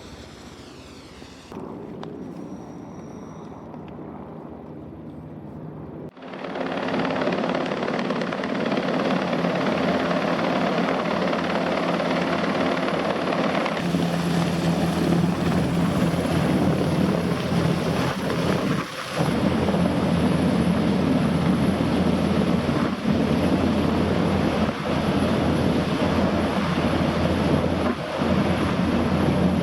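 NH90 helicopter running loud and steady: a dense rotor and turbine noise that jumps up suddenly about six seconds in, after a quieter start.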